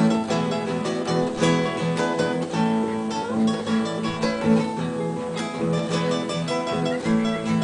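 Solo acoustic guitar (violão) played fingerstyle: a quick run of plucked melody notes over recurring low bass notes, with occasional strums.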